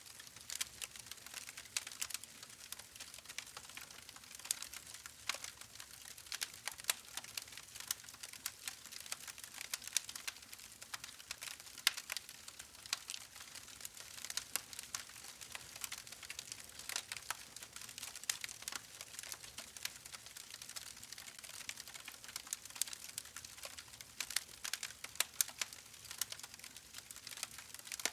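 Wood fire burning in a fireplace, crackling with many small sharp pops and snaps over a faint hiss.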